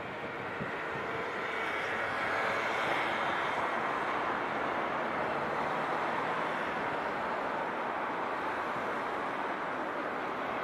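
Electric commuter train approaching on the tracks, its steady running noise of wheels on rail swelling over the first couple of seconds and then holding.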